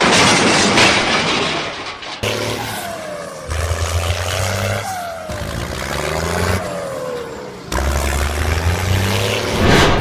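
Vehicle engine sounds with revving, in short segments that cut abruptly from one to the next, with a few falling pitch glides.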